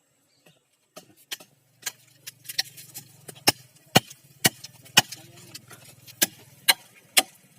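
Block of ice being struck over and over to break it, sharp knocks about twice a second. A low steady hum runs beneath most of the knocking.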